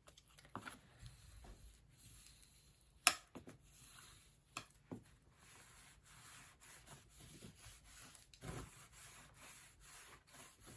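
Bone folder rubbing and scraping over a freshly glued book cover to press it flat, with a sharp tap about three seconds in and a few lighter knocks.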